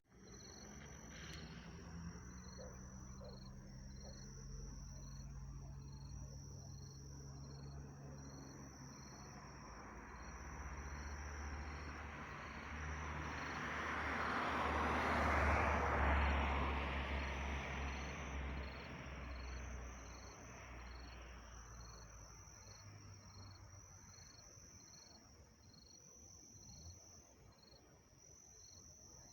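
Insects chirping in a steady, evenly pulsing rhythm. Partway through, a rumbling noise swells up, peaks and fades away again, like a vehicle passing.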